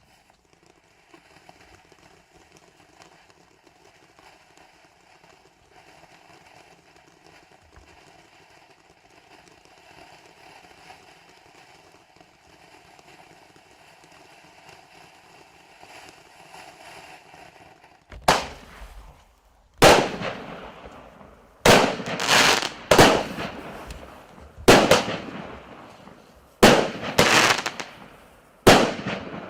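Small 9-shot consumer firework cake (0.8-inch shots) firing: after a long stretch of faint steady background noise, about nine loud sharp shots come at irregular intervals from about 18 seconds in, each trailing off briefly.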